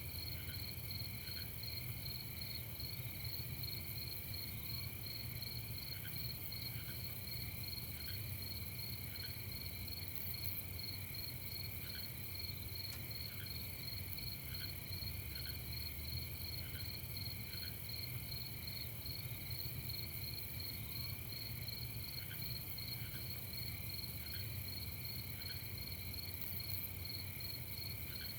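Night insect chorus: steady, fast-pulsing trills layered at several pitches, with short chirps from another caller scattered every second or two. A low steady hum lies underneath.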